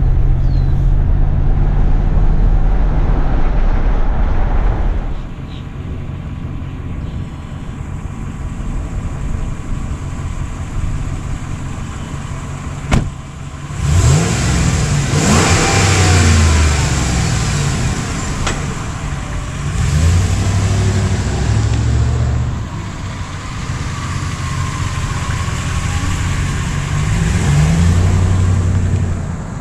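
A Ram 1500's 5.7-litre HEMI V8 engine pulling the truck along, its note rising and dropping several times as it accelerates and eases off, with a single sharp click about halfway through.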